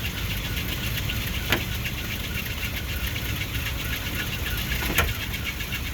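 1963 Ford Thunderbird's 390 V8 idling steadily with a low rumble. Two sharp clicks come through, about a second and a half in and near the end.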